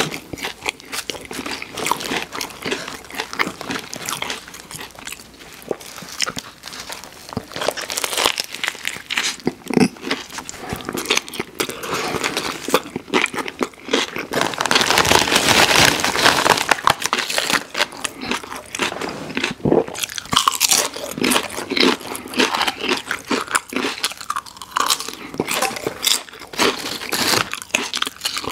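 Close-miked eating: biting into and chewing a sub sandwich with crunchy bread and vegetables, wet chewing mixed with crisp crunches, with a potato chip bitten near the end.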